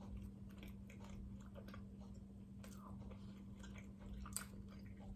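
Faint close-up chewing of a soft steamed siopao bun with its meat filling: small wet mouth clicks scattered through, over a steady low hum.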